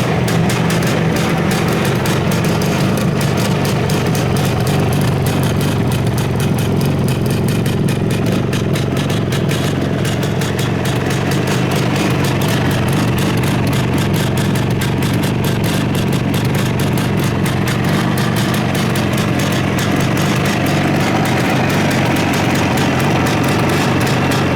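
Suzuki GT500 (T500) air-cooled two-stroke parallel-twin engine idling steadily.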